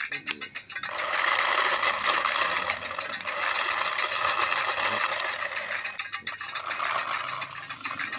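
Small electric motor of a homemade remote-control car running with a rattling buzz, cutting out briefly about half a second in and again around six seconds.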